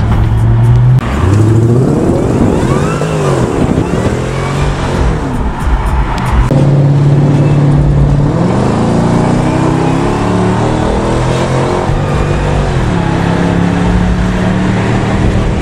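Car engine heard from inside the cabin while driving. The revs rise and fall a few times in the first several seconds, hold steady briefly, then climb again under acceleration about halfway through and settle to a steady cruise near the end.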